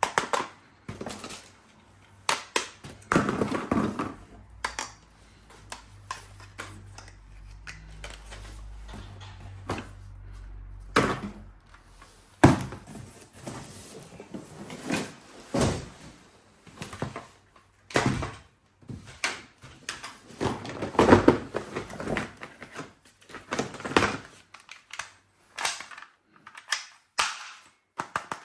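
Irregular clicks and knocks of hard objects being handled, set down and worked by hand, with a faint low hum for a few seconds in the middle.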